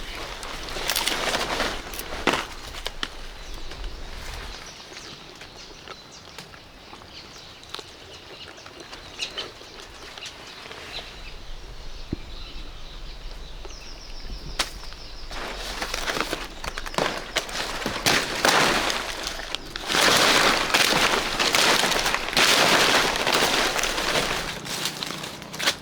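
Rustling and crackling handling noise with scattered sharp clicks and snaps. It is quieter through the middle and grows loud and dense in the last several seconds.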